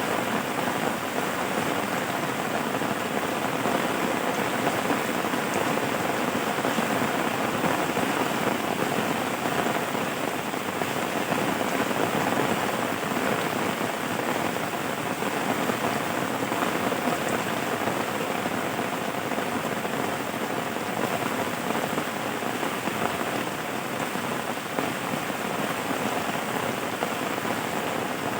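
Steady rain falling on a surface, a dense even patter with no breaks.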